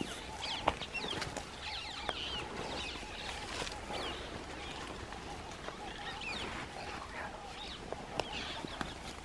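Several birds chirping and calling throughout over a steady outdoor hiss, with a few sharp clicks, the loudest less than a second in and another near the end.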